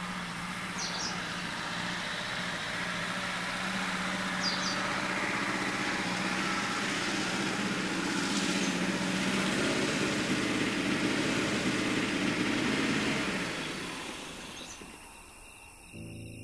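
Car engine running steadily as the car drives slowly up, growing a little louder, then dying away near the end.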